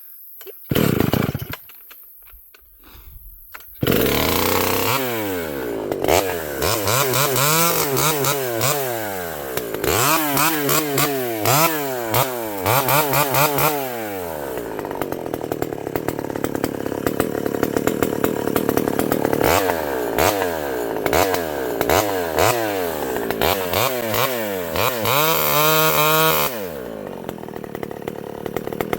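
Vintage Pioneer two-stroke chainsaw: a short burst about a second in, then it starts about four seconds in and runs, revved up and down again and again, settling to a lower steady run in between and near the end.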